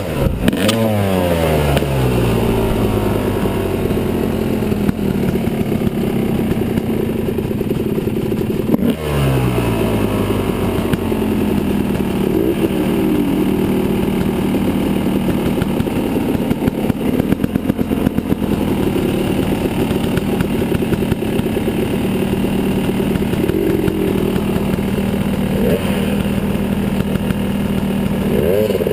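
Yamaha 250 dirt bike engine running under a rider: the revs fall off right at the start and again about nine seconds in, then hold fairly steady, with some rattling from the bike over the ground.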